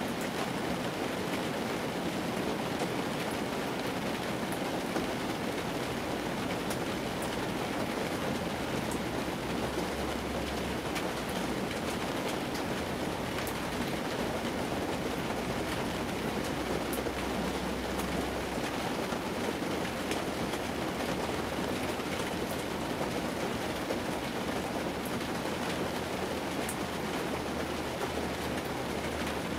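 Rain falling on the roof and windshield of a vintage car, heard from inside the cabin: a steady hiss with scattered sharper drop ticks.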